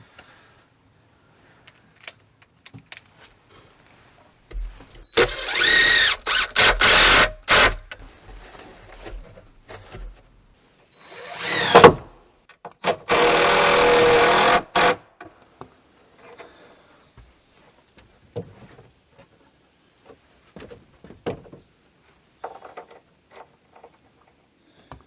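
Power drill driving screws in three runs: a three-second run with brief stops, a short run that rises and falls in pitch, then a steady two-second run. Light knocks and clicks of handling come in between.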